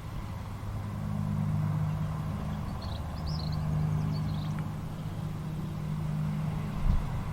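Steady low hum of a running vehicle engine, with a few faint, short, high bird chirps around the middle and a brief low thump near the end.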